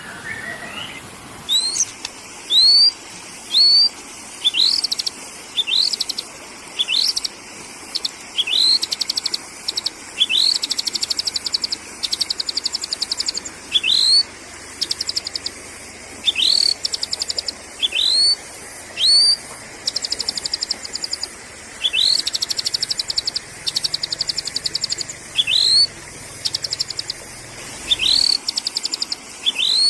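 Sooty-headed bulbul (kutilang) calls in a lure recording: short, high, upward-sweeping notes repeated about once a second, alternating with fast, rattling trills.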